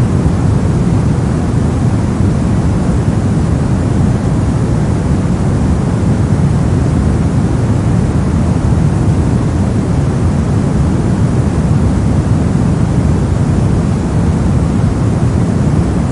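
Steady synthetic brown noise: an even, deep rushing hiss with most of its energy in the low end and little up high.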